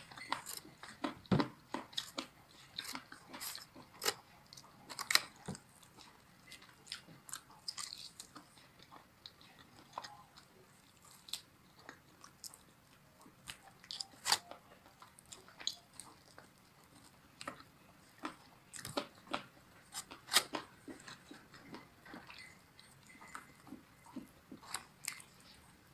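Close-miked eating sounds of a person biting into and chewing honey-glazed hot and spicy Korean fried chicken wings, with many short, irregular crunches and mouth clicks.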